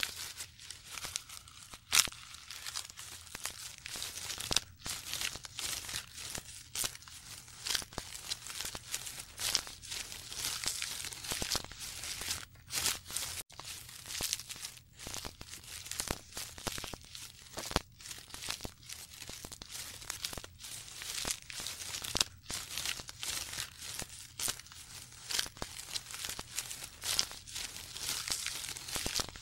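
Giraffe stripping leaves from the branches of a tree: irregular rustling, crackling and snapping of leaves and twigs as it tears them off.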